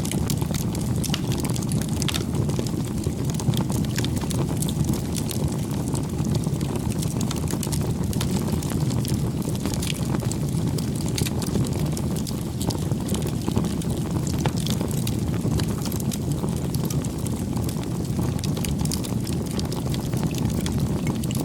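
Wood campfire burning: a steady low rumble of flames with frequent sharp crackles and pops scattered throughout.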